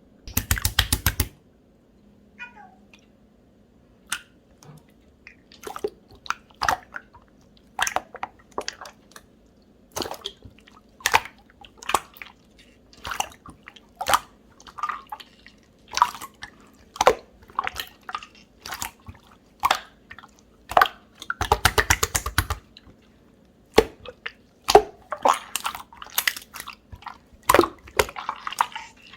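Jelly-textured slime being pressed and played with by hand: a run of wet clicks and pops, one every half second to a second, with two bursts of rapid crackling, one near the start and one about three-quarters through.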